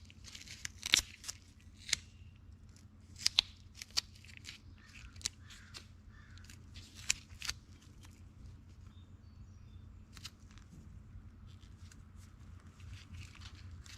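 Tape being pulled off the roll, torn and wrapped around the tip of a metal punch to dull its edge: a string of short crackles and snaps, busiest in the first half and sparser later.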